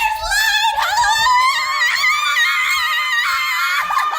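A high-pitched human voice holding one long, wavering note.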